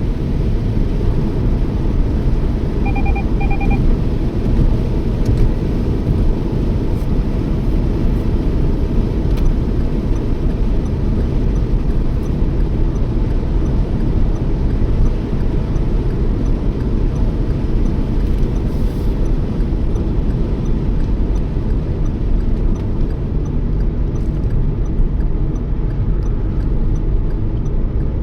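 Steady road and engine rumble inside a moving Toyota Yaris cruising at speed. About three seconds in, two short electronic beeps sound from the dashboard.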